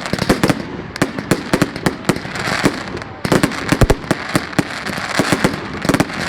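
Fireworks going off: a rapid, irregular stream of sharp cracks and bangs over a constant crackle, with one deeper boom about four seconds in.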